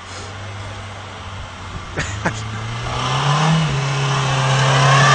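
Car engine revving up and held at higher revs, getting louder, with two sharp clicks about two seconds in and a rising hiss over the second half.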